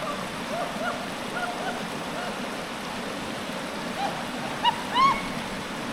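River water rushing steadily over stones. Short chirping calls sound repeatedly over it, two of them louder near the end.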